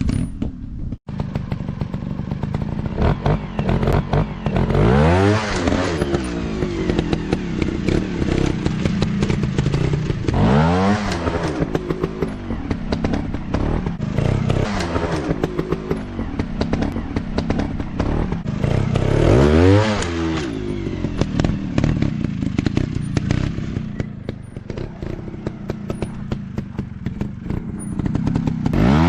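Off-road motorcycle engines running and revving, the pitch rising and falling sharply several times as the throttle is worked. Short knocks and rattles are mixed in throughout.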